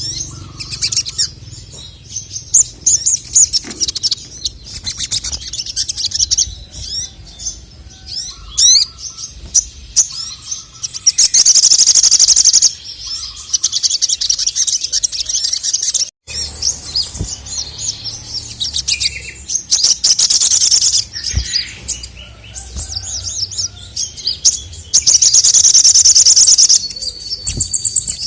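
Male ruby-cheeked sunbird (sogon, sogok ontong) singing continuously: loud bursts of very fast, high trilling, each a second or two long and three in all, with sharp chirps and short sliding notes between them.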